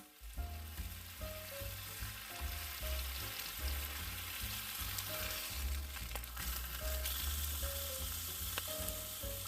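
Steak sizzling in the heat of a campfire, a dense steady hiss with a few sharp pops. Under it runs background music with a bass line.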